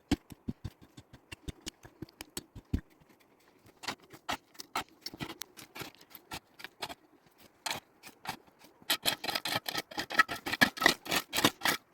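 A series of sharp clicks and knocks, fairly regular at first at about four a second, then sparser, and packed closely together near the end.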